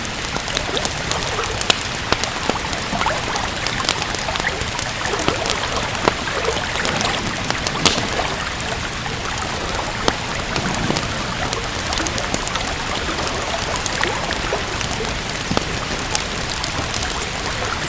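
Steady rain with a wood fire crackling, many small sharp pops scattered through the rain noise.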